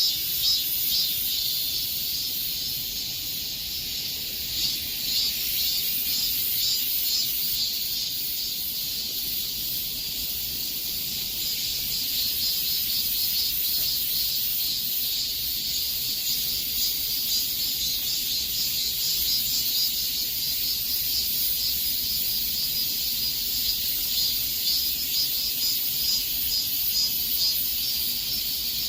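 Cicadas in chorus, a steady high buzzing trill with a rapid pulsing texture.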